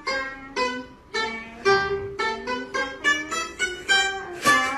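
Music: a plucked string instrument playing a quick melody of single struck notes, each ringing briefly and dying away, about two or three notes a second.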